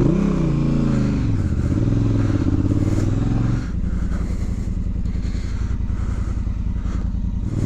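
2019 Honda Africa Twin's parallel-twin engine under way: its note falls over the first second and a half, climbs again under throttle, then the throttle closes about three and a half seconds in and it runs on at a steady, lower and quieter note.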